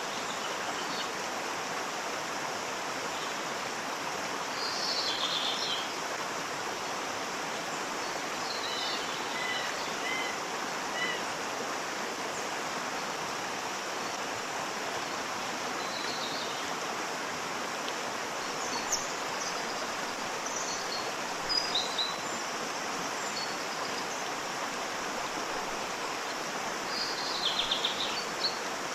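Steady rush of a waterfall, with small birds chirping now and then over it, most clearly about five seconds in, around the middle and near the end.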